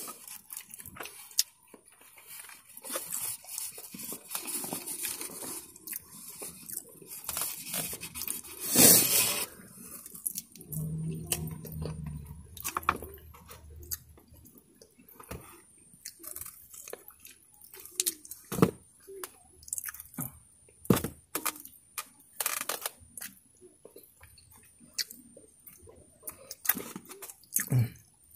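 Close-up chewing and lip-smacking while eating chicken, with crunching and many irregular wet mouth clicks, and one louder sound about nine seconds in.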